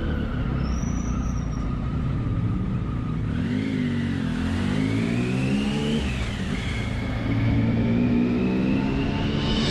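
Triumph Tiger 1050's three-cylinder engine under way. The revs rise and fall twice in the middle, then climb steadily near the end.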